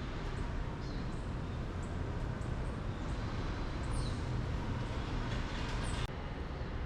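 Steady low rumble of city street traffic, with a few faint, brief high chirps now and then.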